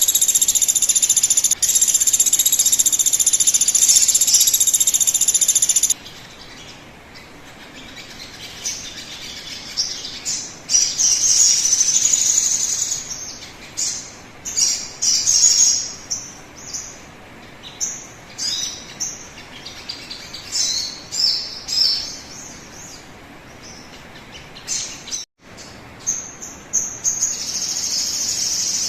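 Sogon bird song played as a lure recording to get a bird singing. A steady high ringing song cuts off suddenly about six seconds in, giving way to short, separate high chirps and whistled phrases, and a steadier high song returns near the end.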